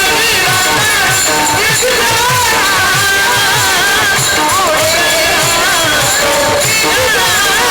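Devotional kirtan music: a sung melody with a wavering, ornamented line over a hand drum beating about two to three strokes a second, each deep stroke sliding down in pitch.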